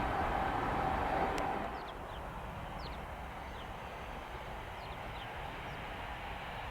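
A passing train's rumble, with a steady tone, dies away in the first couple of seconds, leaving quiet open-air background in which a bird gives several short, falling calls.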